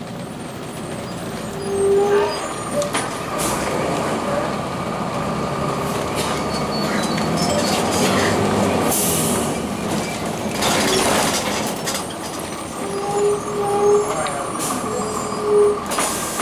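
Blue Bird CS transit bus running on its Cummins ISC inline-six diesel, with two bursts of air hiss around the middle and a few short squeals, one early and several near the end.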